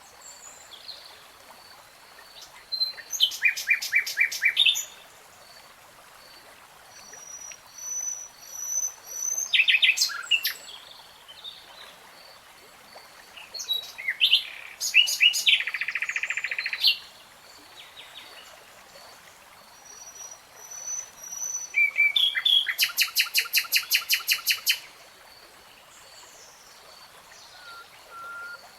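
Songbirds singing in separate phrases a few seconds apart. Several phrases are fast trills of rapidly repeated notes, the longest about three seconds, near the end. Faint high pips repeat steadily underneath.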